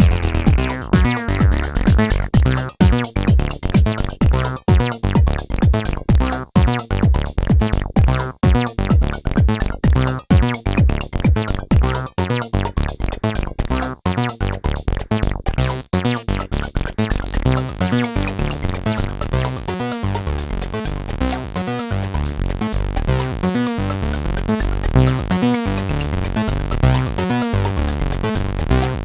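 Electronic jam: two Behringer TD-3-MO bass synthesizers (TB-303-style acid bass) play a fast sequenced bassline in unison over drum-machine drums and percussion from a Roland JD-Xi, with no effects.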